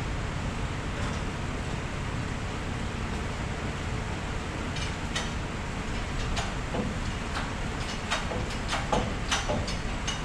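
Short metallic clicks and clanks over a steady low rumble. They start about halfway through and come thickest near the end.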